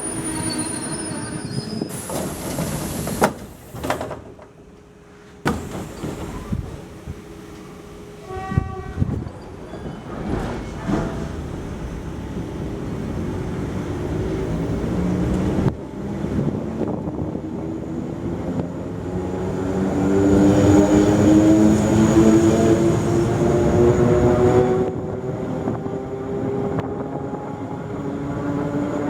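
ER2 electric multiple unit pulling away and gathering speed: a whine from its traction motors and gearing rises steadily in pitch and grows louder over the second half. A few knocks come first, with a brief horn-like tone about nine seconds in.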